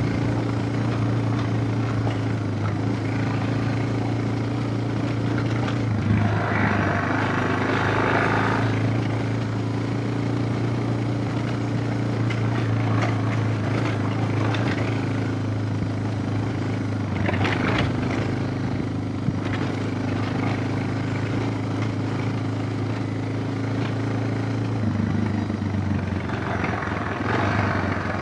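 Suzuki DR650's single-cylinder engine running at a steady pace under way, its note dipping briefly about six seconds in and again near the end, with a few bursts of rushing noise on top.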